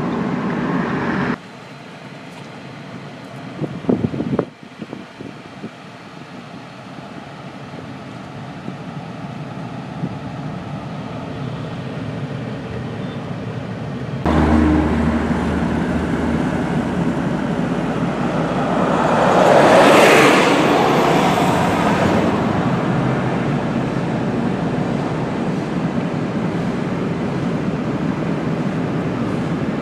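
Steady outdoor road-vehicle noise, swelling and fading about twenty seconds in as a vehicle passes. The sound changes abruptly twice, about a second and a half in and again about fourteen seconds in, with a short burst of clatter around four seconds in.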